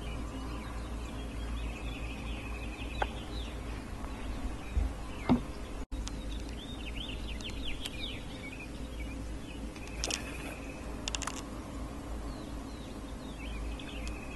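Songbirds singing in three bursts of quick, arcing chirps, with a few sharp clicks between them, over a steady low outdoor rumble.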